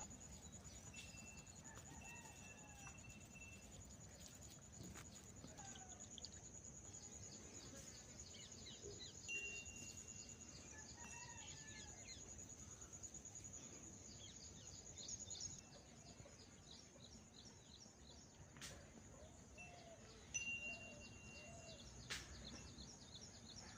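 Faint birdsong at dawn: many short chirps and calls with a few held whistled notes, over a steady high-pitched whine that stops about two-thirds of the way through.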